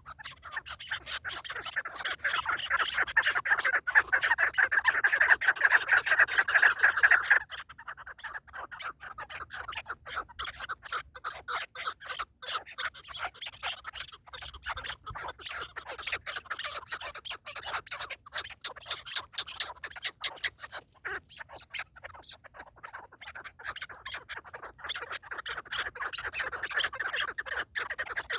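Partridges calling: a fast, continuous run of short, rasping clucks, loudest for the first several seconds, then softer and building again near the end.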